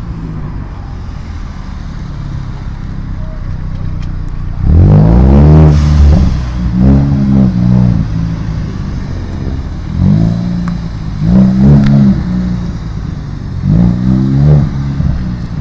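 An engine idling, then revved hard about five times in short blips, each rising in pitch and falling back to idle; the first rev, about five seconds in, is the loudest.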